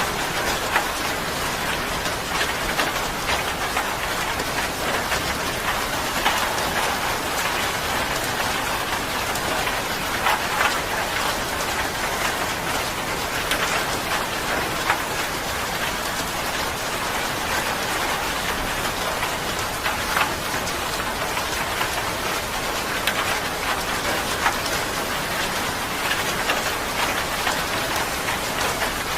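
Steady rain falling on a surface, with many individual drops ticking through a constant hiss.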